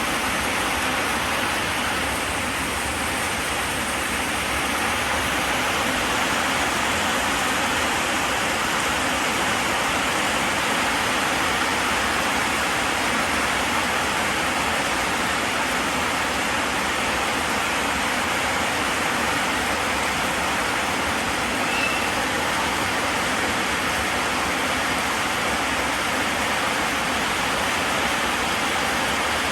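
Heavy rain and falling water making a steady, even rush with no breaks.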